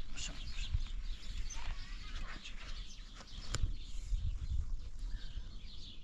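Small birds chirping in many short, high calls over a low rumble, with one sharp click about three and a half seconds in.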